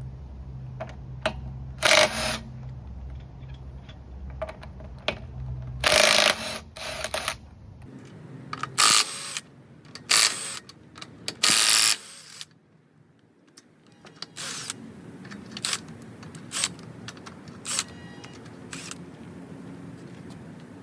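Hand tools and metal parts being handled on a car's engine bay: a string of separate clanks, knocks and clicks, the loudest about 2, 6, 9, 10 and 11 seconds in. A low hum sits under the first part.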